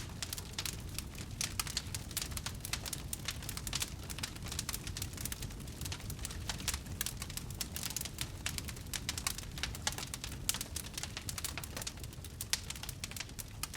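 Wood fire crackling in a fireplace: dense, irregular pops and snaps over a low steady rumble of flame.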